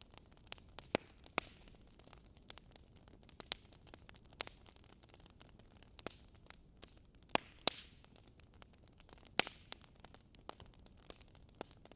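Wood fire in a fireplace crackling: irregular sharp pops and snaps over a soft hiss, with the loudest pops a little past halfway and again a couple of seconds later.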